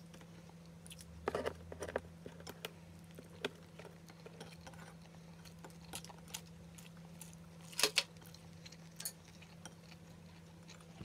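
A person chewing a mouthful of rice and fish, with scattered short wet clicks and taps from mouth and fingers on the plate; the loudest pair comes about eight seconds in. A low steady hum runs underneath.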